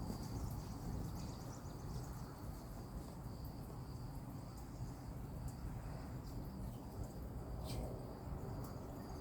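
Faint, steady high-pitched insect trilling, cricket-like, over low outdoor background noise, with a few brief sharp chirps or clicks.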